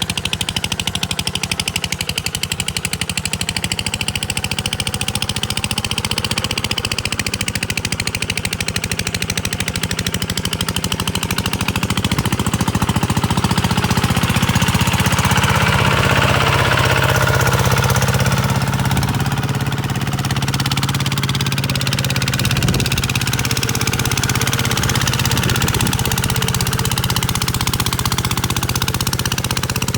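Kubota single-cylinder diesel engine running with a rapid knocking chug. It grows louder about twelve seconds in and eases back a little around eighteen seconds.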